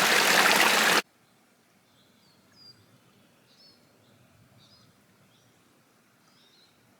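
A stream running loudly cuts off abruptly about a second in. Faint woodland ambience with scattered short, high bird chirps follows.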